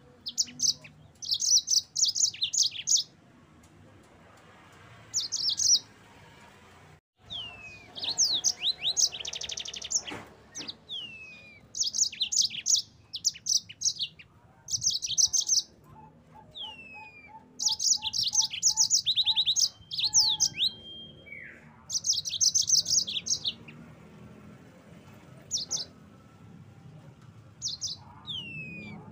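Yellow-fronted canary (Mozambique canary) singing: repeated short bursts of rapid, high trills and chirps with brief pauses between phrases.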